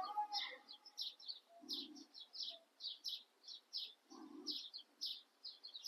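Small birds chirping in a quick, even series, about three chirps a second. Two short low sounds come about two and four seconds in.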